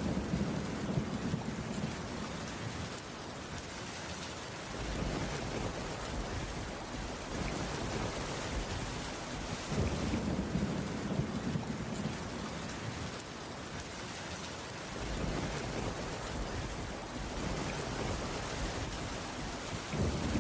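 Steady rain falling on a wooden cabin roof, with a low rumble that swells and fades about every five seconds.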